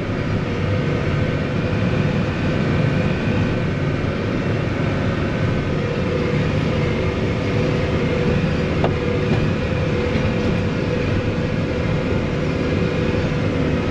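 Motor vehicle engine running steadily under load with a continuous low rumble and a steady whine, as it drives up a rough, muddy dirt track.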